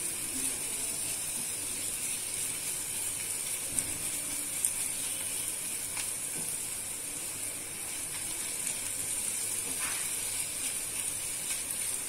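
Chopped vegetables sizzling gently in oil in a nonstick pan while a silicone spatula stirs them, with a few soft scrapes and taps of the spatula.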